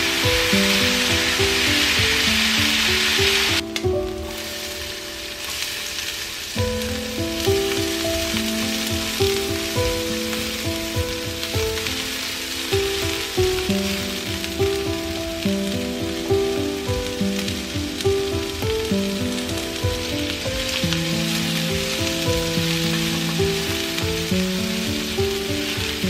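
Ground chicken, onion and diced bell pepper sizzling in an oiled nonstick pan, turned with a wooden spatula, over background music. The sizzle is strongest at first, cuts out abruptly just under four seconds in, and comes back more softly a few seconds later.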